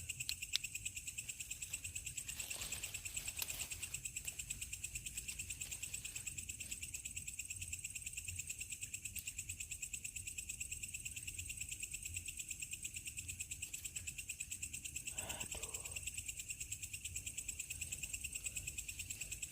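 Crickets chirring steadily in a fast, even pulse at two high pitches, with a short faint noise about fifteen seconds in.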